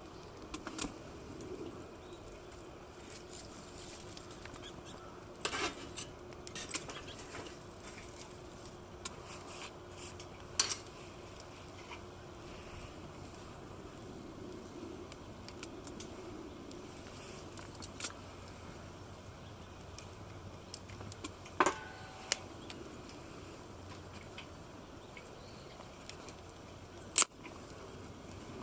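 Occasional sharp clicks and light metallic clinks of camp gear being handled, over a steady low hiss, with a faint hum through about the first half.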